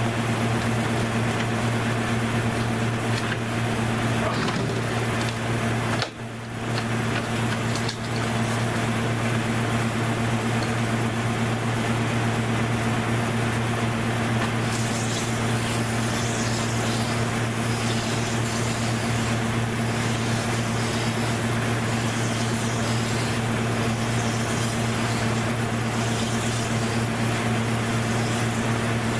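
Steady hum of a running motor, with a brief dip about six seconds in and a hiss added from about halfway through.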